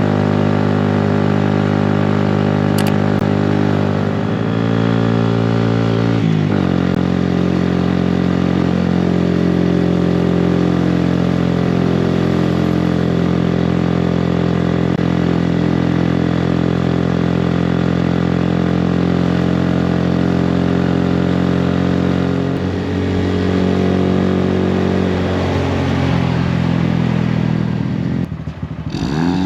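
2018 Honda Grom's 125 cc single-cylinder four-stroke engine through a Yoshimura exhaust, running under way. Its pitch steps a few seconds in as gears change, then holds mostly steady, drops off briefly near the end and revs back up.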